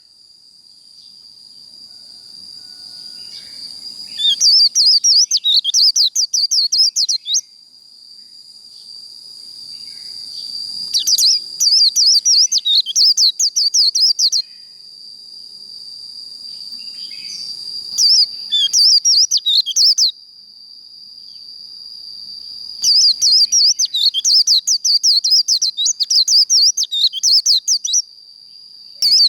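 White-eye (vành khuyên) singing its 'líu' competition song: a long, high, steady trill that slowly grows louder, breaking four or five times into bursts of rapid, high warbling chatter lasting a few seconds each.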